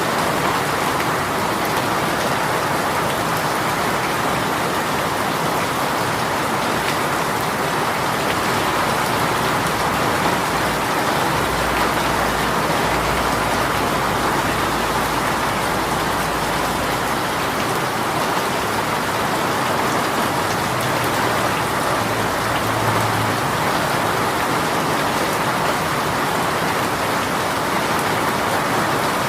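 Heavy rain shower pouring steadily, a dense even hiss of rain falling on surfaces.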